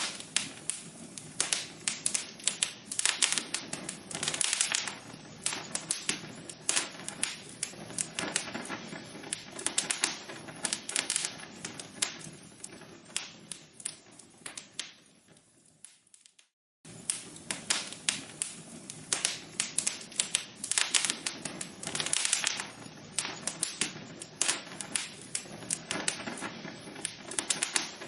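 Logs burning in a fireplace, crackling with dense, irregular pops and snaps. A little past halfway the crackle fades out, stops for about a second, then starts again at full strength.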